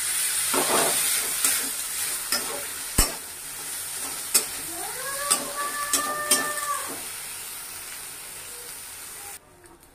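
Mashed-potato filling frying in oil in a kadhai, sizzling steadily while a spatula stirs it, with scattered clicks and knocks of the spatula against the pan, one sharper knock about three seconds in. About five seconds in, a separate pitched tone rises and holds for about two seconds. The sizzle cuts off shortly before the end.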